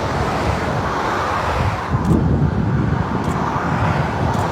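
Dense motorway traffic with heavy lorries passing at speed: a steady rush of tyre and engine noise, with a deeper rumble swelling about two seconds in as a lorry goes by.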